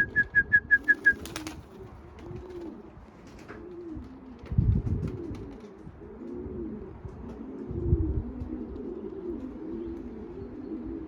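Racing pigeons cooing, many low rising-and-falling coos overlapping throughout. It opens with a brief high trill of about eight rapid notes, and two dull thumps come in around the middle and near the end.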